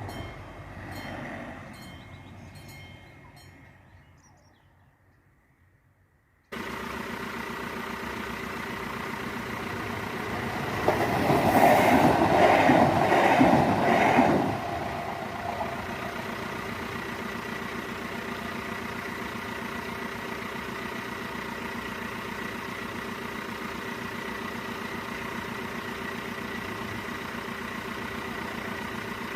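A train passing over a level crossing, with the crossing bell striking about every 0.6 s as the train's sound fades away. After an abrupt cut, a steady mechanical hum is heard, with a loud pulsing rush lasting about three and a half seconds partway through as a train goes by.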